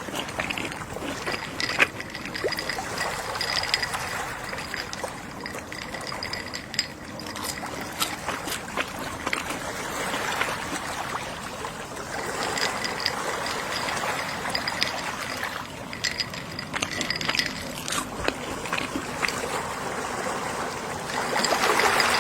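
Gentle sea waves washing in and drawing back, swelling and fading every few seconds, with the largest swell near the end. Small clicks and crackles run through it.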